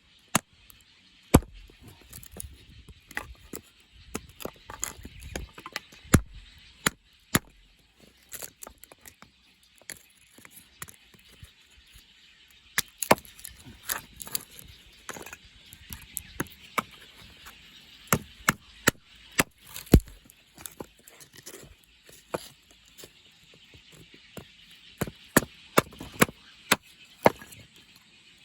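Gränsfors Bruks outdoor axe chopping and splitting small pieces of firewood: a long run of sharp, irregular knocks of axe on wood, some single, some in quick pairs.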